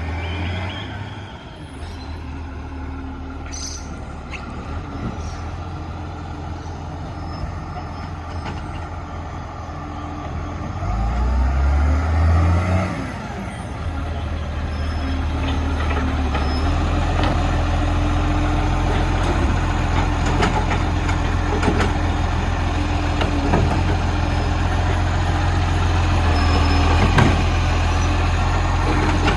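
Garbage truck's diesel engine running, revving up and back down about eleven seconds in, then running on with a steady whine and occasional clanks.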